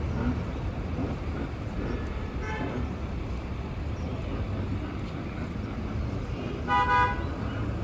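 Low traffic and engine rumble with a vehicle horn: a faint short toot about two and a half seconds in, then a louder two-part toot near the end.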